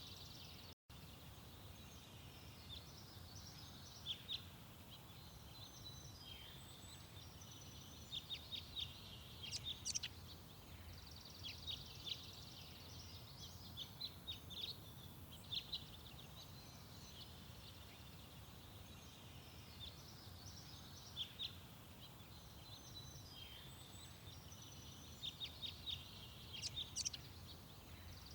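Small garden songbirds singing, with phrases of quick, high chirping notes every few seconds, over a steady low background rumble.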